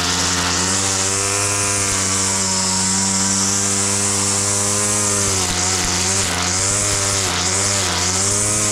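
Small petrol engine of a grass-cutting machine running steadily under load, its pitch dipping and recovering several times in the second half as it bogs into the grass.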